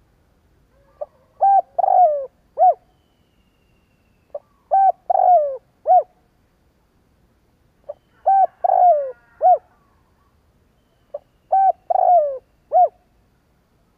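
Spotted dove cooing its song four times, about every three and a half seconds. Each phrase is a quick soft note followed by three or four short, clear coos, the middle one drawn out and falling.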